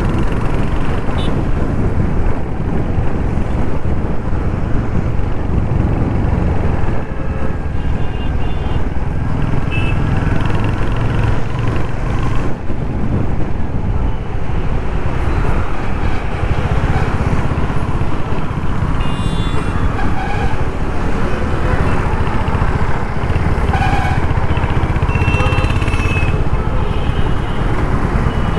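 Royal Enfield Hunter 350's single-cylinder 350cc engine running steadily as the bike is ridden through city traffic, picked up from on board, with the noise of surrounding traffic around it.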